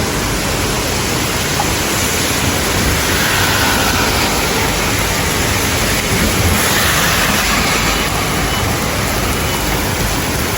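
Heavy rain pouring down in a steady, dense hiss, swelling slightly about six to seven seconds in.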